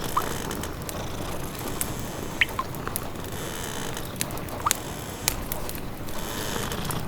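Wood fire crackling in a fireplace, with scattered sharp pops and three brief high squeaks, over a steady low background noise.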